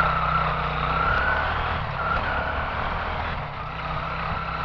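Quad (ATV) engine running steadily, with a thin steady high whine over it that breaks off briefly about two seconds in.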